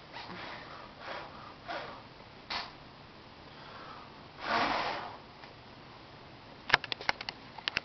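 A man blowing on smouldering fireplace embers to rekindle the fire: a few short breathy puffs and one longer, stronger blow. Near the end comes a quick run of sharp clicks.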